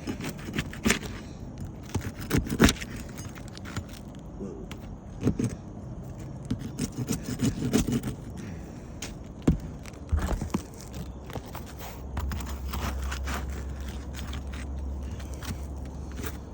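Clinks and scrapes of metal roofing tools working on asphalt shingles, as a damaged shingle is worked loose. From about eleven seconds in, a steady low rumble joins them.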